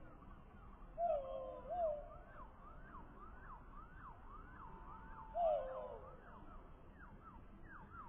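Western bluebird calls played slowed down and lowered in pitch: a quick run of short sweeping notes, about two a second, with three louder, lower wavering notes about a second in, near two seconds and past five seconds.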